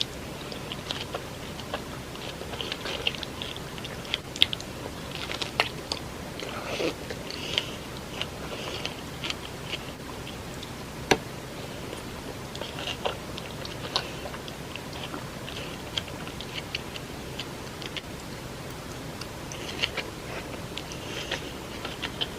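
Close-up eating sounds: soft, wet chewing with irregular sharp clicks, typical of biting into and chewing fresh strawberries with Nutella and whipped cream.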